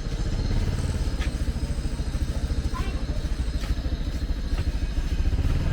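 A small engine running with a rapid, even low pulse, with a few sharp clicks over it, growing louder near the end.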